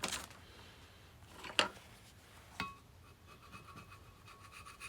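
Faint scraping and a few sharp clicks of hand work on a milling-machine vise as caked-on crud is worked off it.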